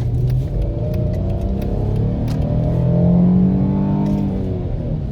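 Dodge Charger's V6 engine revving up over a few seconds and then easing off, its pitch rising and then falling. The engine is logging a random multiple-cylinder misfire.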